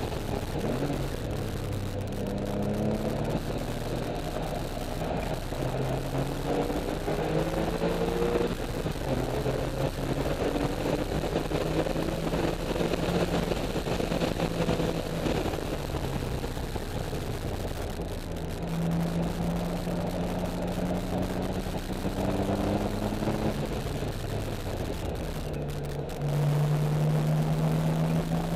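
Porsche 996's flat-six engine at full throttle on a track lap, climbing in pitch in several rising sweeps as it pulls through the gears, then holding high, steady revs. It eases off, then gets louder again near the end, over steady wind and road noise.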